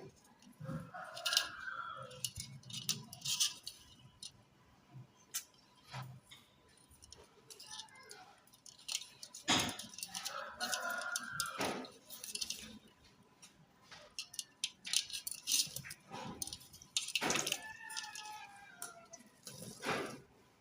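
A parrot calling and chattering in a few short voice-like bursts, among sharp clicks and rattling.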